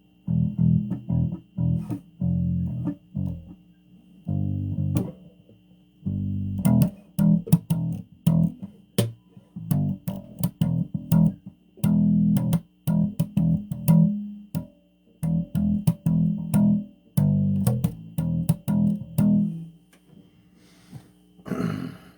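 Electric bass guitar played through an amplifier, plucked notes in short, broken phrases with sharp clicks between many of them.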